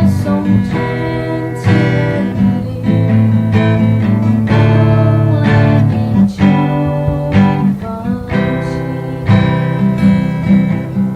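Acoustic guitar strumming and letting chords ring, with a fresh chord struck every second or two: an instrumental passage of the song with no voice.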